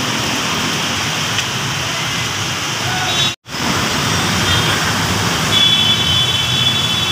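Heavy rain falling in a steady hiss, cut off completely for a split second about halfway through.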